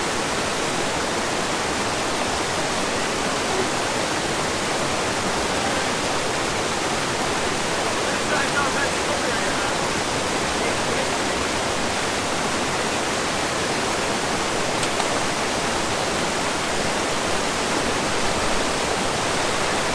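Waterfall's rushing water, a steady even roar with no breaks.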